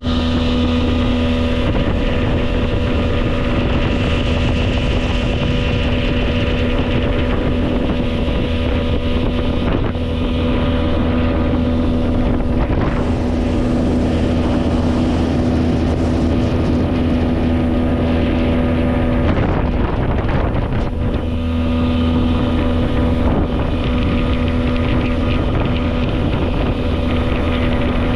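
Bass boat's outboard motor running steadily under way, with wind rushing over the microphone. The engine note briefly breaks about two-thirds of the way through, then carries on.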